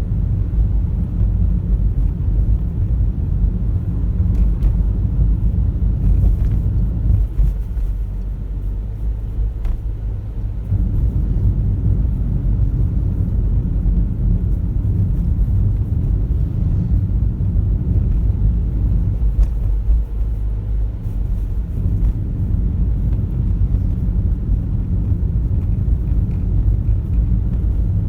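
Car driving along a road: a steady low rumble of engine and tyre noise that eases off for a few seconds twice.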